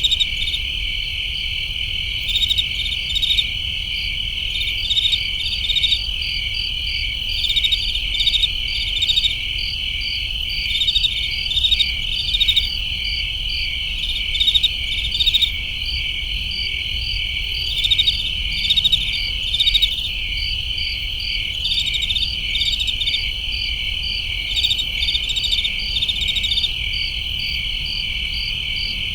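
Chorus of crickets chirping: a continuous high trill, with louder pulsed chirps rising over it every second or two.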